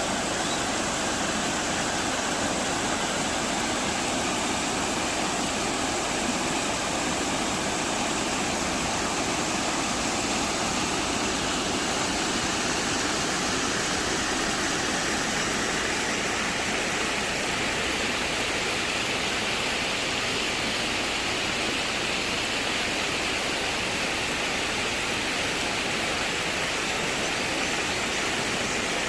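Mountain valley stream water rushing steadily over rocks, an even, unbroken rush.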